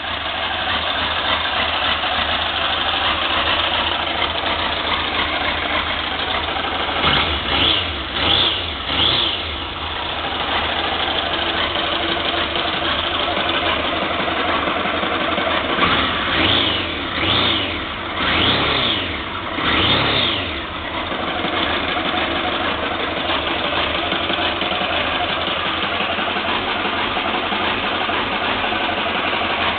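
Triumph Trophy 1200's inline four-cylinder engine idling steadily during an engine test. It is revved in short throttle blips: three about a quarter of the way in and a group of four or five just past the middle, each rising and falling back to idle.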